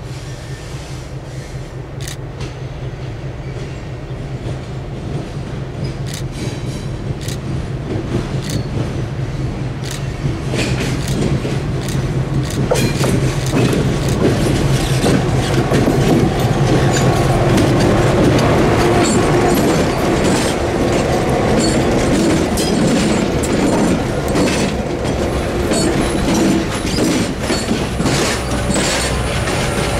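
A diesel-hauled train approaching and passing: the locomotive's engine grows steadily louder over the first half, then the cars go by with wheels clicking over rail joints and some wheel squeal.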